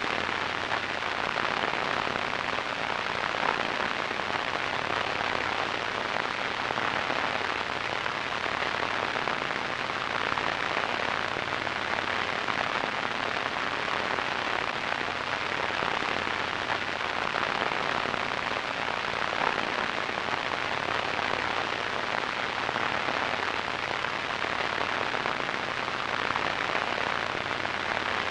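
Radio static: a steady, even hiss, strongest in the middle range and thin in the bass and the highest treble.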